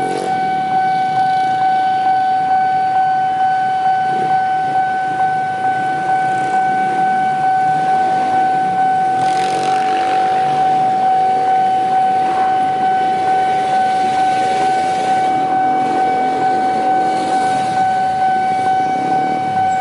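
Railway level-crossing warning alarm sounding one steady, unbroken high tone, over vehicle and traffic noise with a louder rush of passing traffic about ten seconds in.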